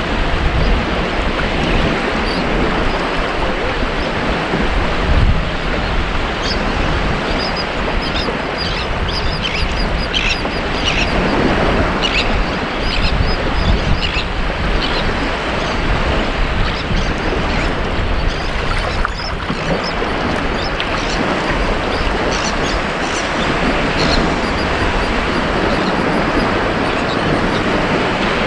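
Ocean surf washing steadily onto a beach. Short bird calls come over the waves, mostly in the middle of the stretch and once more near the end.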